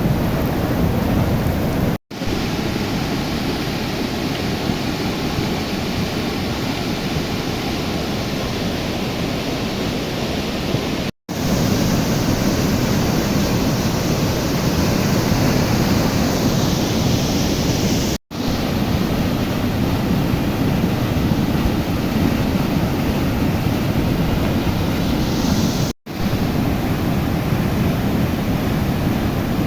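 Floodwater of a swollen mountain river rushing past in a steady, loud wash of noise, with the recording cutting out briefly four times.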